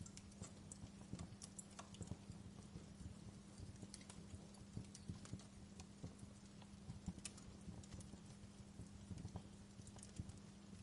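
Fireplace fire crackling softly, with irregular small pops and snaps, several a second, over a faint steady low hum.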